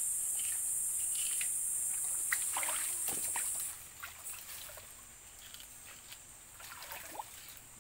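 Shallow seawater sloshing with small irregular splashes as people wade and feel for clams. A steady high hiss over it cuts off abruptly about halfway through.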